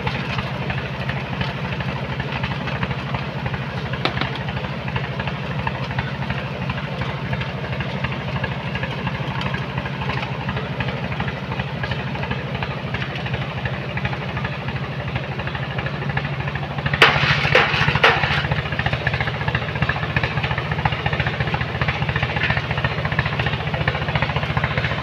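Engine of a sand-loading machine running steadily. There is a short loud clattering burst about seventeen seconds in, after which the engine runs a little louder.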